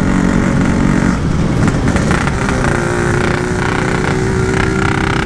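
Yamaha RX-King two-stroke single-cylinder engine running under way at a steady, unchanging pitch, with no revving up. The bike has no pull, which the rider puts down to a carburettor running too wet that needs setting.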